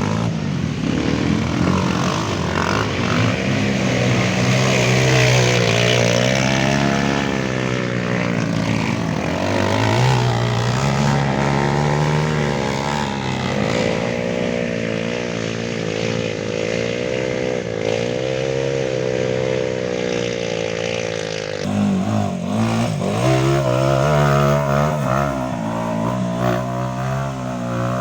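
Dirt bike engines running and revving, their pitch wavering up and down as the throttle is worked, with an abrupt change in the sound a little past two-thirds of the way through.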